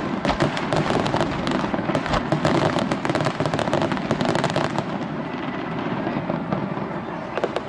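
Fireworks display: a dense run of crackling bursts and bangs, thinning out after about five seconds.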